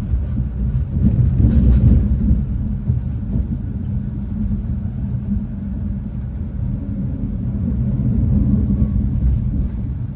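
Renfe class 130 (Talgo 250) high-speed train running, heard from inside the passenger coach as a steady low rumble that swells briefly about a second and a half in.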